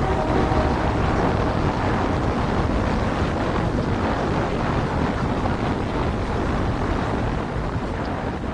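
Strong wind rushing steadily, with a heavy low rumble of wind buffeting the microphone.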